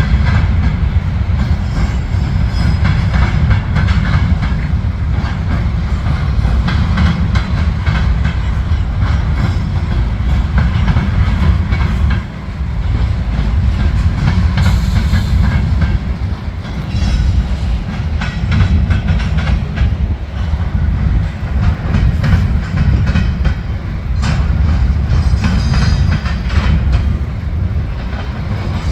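Train rolling past, its wheels clattering over the rail joints in quick irregular clicks over a steady, loud low rumble.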